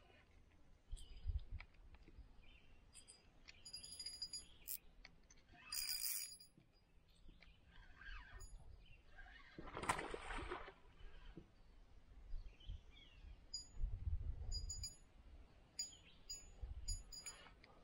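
Small birds chirping in short, high, repeated notes, in a cluster a few seconds in and again in the second half. Scattered low knocks and two louder rustling, scraping noises, at about six and ten seconds, come from nearby handling.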